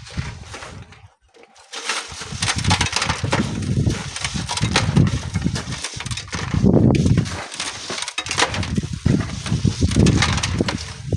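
Strong wind buffeting the microphone in swelling, uneven gusts, with gritty crunching and crackling of sand and stones being worked.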